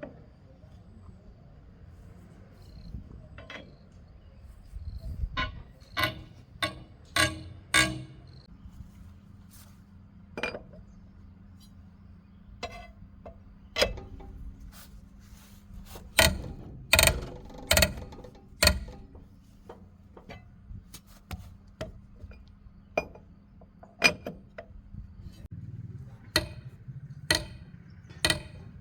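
Irregular metallic clinks and knocks of hand tools and parts being handled during car repair work, with a cluster of louder knocks in the middle and a faint steady hum underneath for a while.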